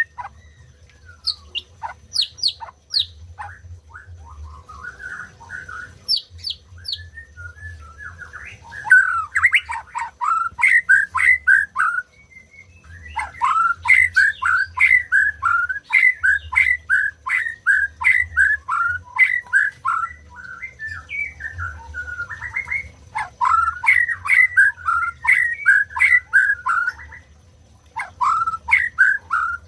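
White-rumped shama singing: a few high whistled sweeps, then long runs of quick, repeated downward-slurred notes, about three a second, broken by short pauses.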